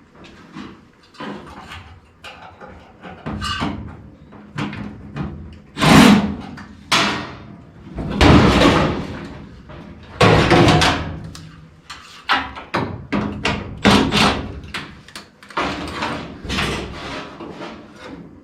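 Irregular metal clanks and bangs from sheet-metal furnace parts being handled and knocked during heat exchanger replacement, some hits ringing briefly, the loudest about six, eight and ten seconds in.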